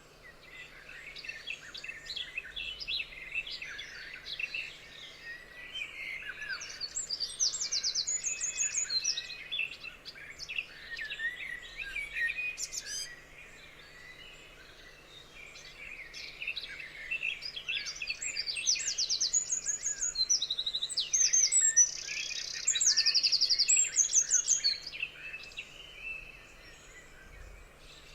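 Several forest songbirds singing and chirping at once, overlapping whistled phrases, with bursts of rapid high trills that stand out loudest twice.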